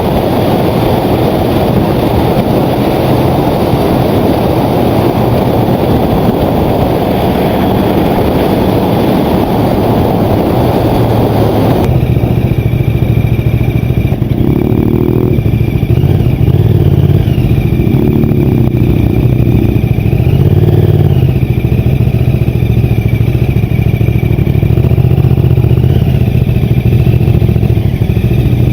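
Motorcycle riding recorded on board. At first mostly a steady rush of wind noise; about twelve seconds in this gives way to the engine's note, which rises and falls several times with the throttle.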